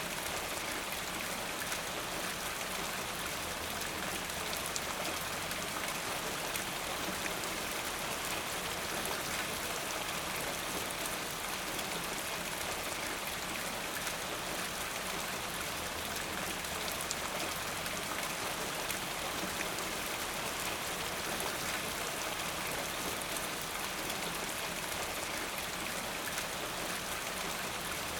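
Steady rain falling: a dense, even hiss of many drops, unchanging throughout.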